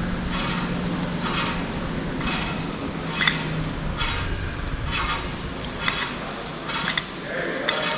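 Hand tools on a Nissan RB26DETT engine: a wrench turning the crankshaft over by hand to check the freshly fitted timing belt. It gives a short scraping, clicking stroke about once a second over a low steady hum.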